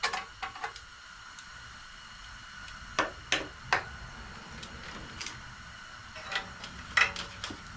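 Sharp clicks and clacks in small clusters every few seconds, with no motor spinning up: a lawn-tractor electric starter being bench-tested with leads and failing to turn, a dead starter.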